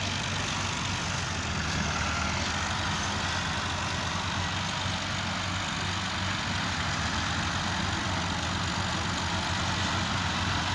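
Tractor diesel engine running steadily, a low even drone with a haze of mechanical noise above it.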